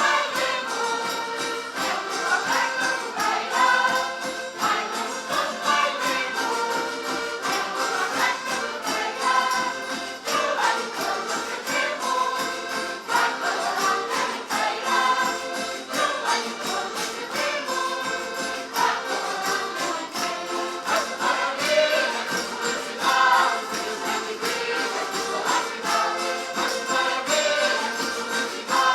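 Portuguese folk group singing a Christmas song in chorus, with jingling percussion keeping a steady beat.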